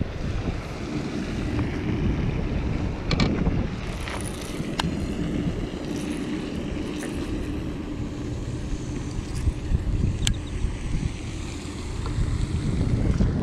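Wind buffeting the microphone: a steady low rumble, with a few short clicks scattered through it.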